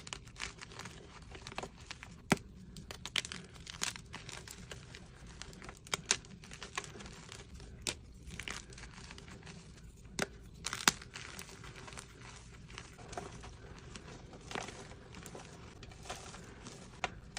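Gym chalk being crushed, with irregular crisp crunches and crackles and a few sharp louder snaps.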